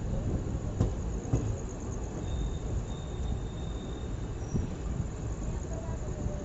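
Passenger train running on the rails: a steady rumble with two sharp knocks about a second in and a faint high whine midway.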